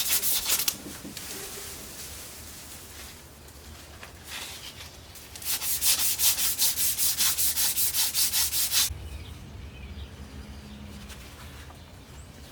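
Hand sanding and polishing a crankshaft journal with abrasive, in rapid back-and-forth rubbing strokes about three a second. The strokes stop a moment after the start, then resume for about three seconds midway.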